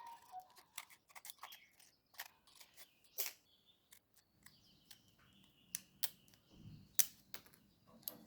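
Scissors snipping, a string of sharp, irregular clicks and cuts.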